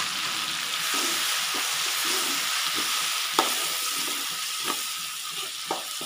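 Blended chili paste sizzling in hot oil in a wok, stirred with a metal spatula that clinks against the pan a few times.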